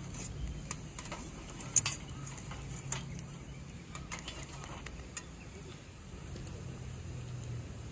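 Wood fire crackling, with scattered snaps and one sharp pop about two seconds in, over a low steady rumble.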